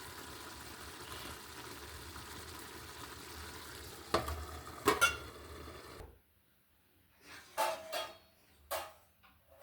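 Omena frying in a pot with tomatoes, a steady sizzle, with two sharp metal pot knocks about four and five seconds in. The sizzle cuts off suddenly about six seconds in, and a few short faint knocks follow.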